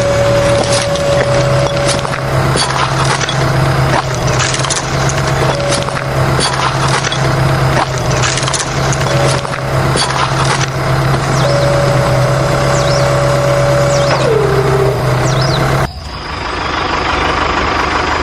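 A small motor running steadily with a constant hum, over repeated clicks and knocks, with a few bird chirps. Its pitch dips briefly about 14 seconds in, and the motor hum cuts off suddenly near 16 seconds.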